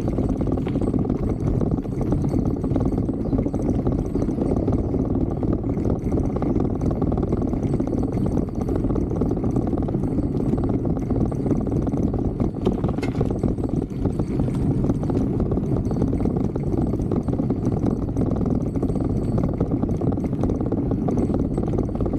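Bicycle descending a rough downhill trail at speed: steady wind rushing over the microphone with a constant rattle and clatter from the bike bouncing over the ground.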